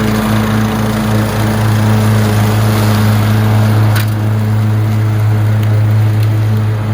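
Lawn mower engine running steadily at a constant speed while mowing, with a short click about four seconds in.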